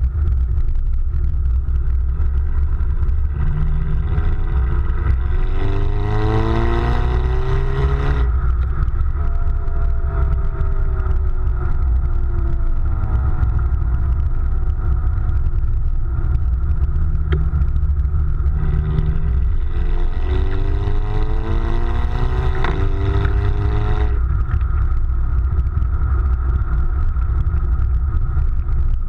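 Exhaust of a VW Beetle 2.0 TSI turbocharged four-cylinder, fitted with a centre-silencer delete pipe, running with a steady low rumble. The engine revs up twice, rising in pitch for a few seconds, and each run cuts off abruptly before the note falls away.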